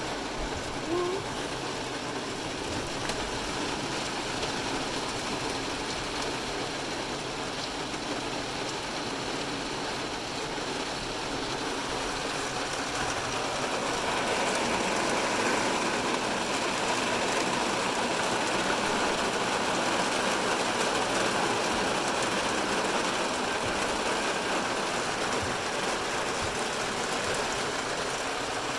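Heavy rain falling on a car's roof and windows, heard from inside the cabin as a steady, dense patter that grows a little heavier about halfway through.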